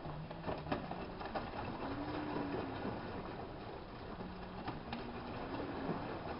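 Hanseatic HWM814A3D washing machine's drum motor starting up and turning the drum, a hum that rises and falls in pitch as the drum speeds up and slows, with scattered knocks over a steady rush.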